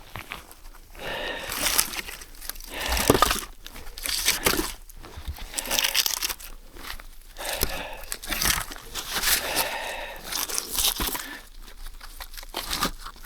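Deep snow crunching in a slow series of loud crunches, about one every second or so.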